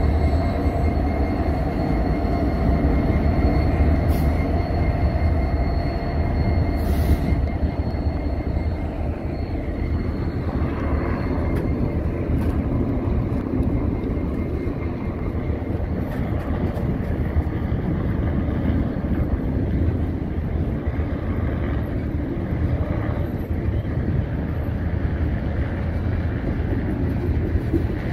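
A Union Pacific train rolling past: the diesel locomotive UP 4141, an EMD SD70ACe, goes by first, then a string of passenger cars follows on the rails. There is a steady low rumble throughout, and a thin high whine fades out about halfway through.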